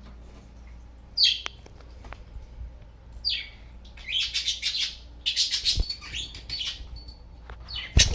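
Pet budgerigars chirping: a few single high chirps, then rapid continuous chattering from about four seconds in. A sharp low thump comes near the end.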